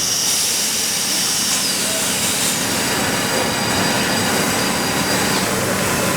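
Factory machinery running with a steady, even noise and thin high-pitched whines over it.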